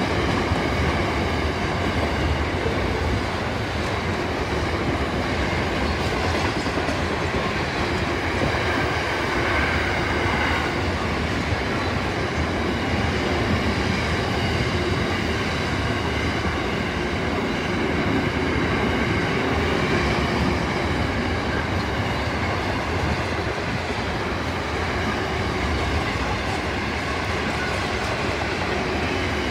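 Container wagons of a long intermodal freight train rolling steadily past on the rails, a continuous rumble of wheels on track with faint steady high tones riding over it.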